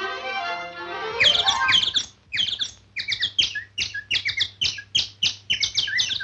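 Orchestral cartoon score for about the first second, then a cartoon bird's chirping song: a fast run of short, high, falling chirps, several a second, that stops suddenly near the end.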